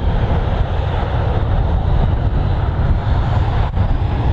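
Jet airliner engines running loud and steady, a dense rumbling noise heavy in the low end.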